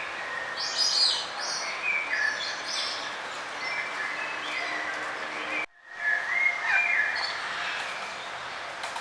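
Songbirds chirping and trilling in short high phrases over a steady outdoor hiss. The chirps cluster in the first few seconds and again just after a split-second dropout to silence a little past halfway.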